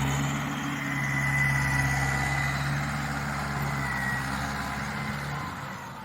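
Mahindra tractor's diesel engine running at a steady pace, its note fading away near the end.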